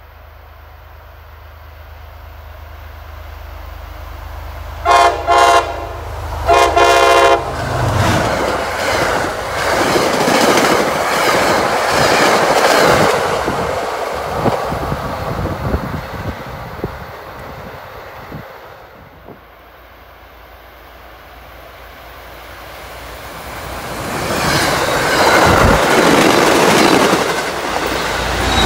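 Diesel commuter train sounds two short horn blasts as it approaches, then passes at speed with a loud rumble of wheels on rail that fades away. A second commuter train builds up and passes close by near the end.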